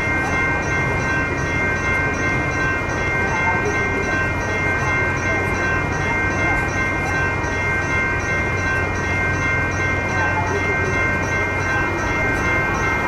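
Amtrak Pacific Surfliner passenger train running past at high speed, a steady rumble with held ringing tones and a regular ringing about three times a second.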